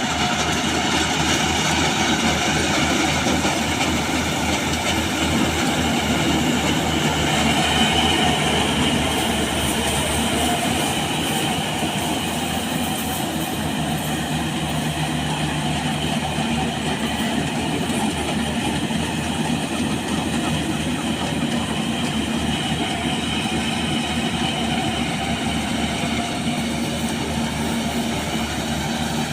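Yanmar AW70V combine harvester running steadily: a diesel engine drone with fast, even pulsing and machinery noise, with no pauses or changes in level.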